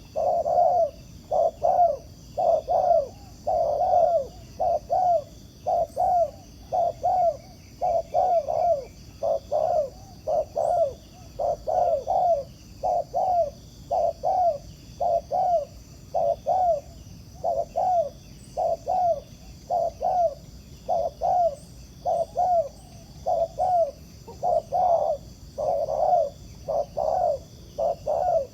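Spotted dove cooing in a steady run of short, repeated coos, about two a second, without a break.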